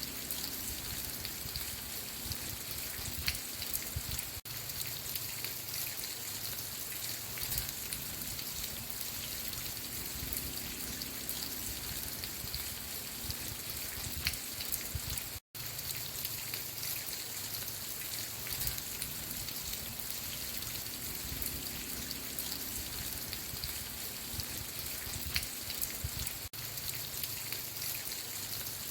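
Steady rain falling, with the sound cutting out for an instant about halfway through.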